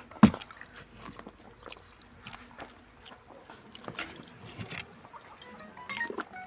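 A person eating, close up: chewing and biting with small crunches and clicks, one louder click about a quarter second in.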